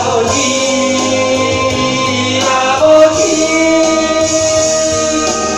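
Korean worship song sung by male and female voices over instrumental accompaniment. The voices hold long notes, and the word "아버지" ("Father") is sung about three and a half seconds in.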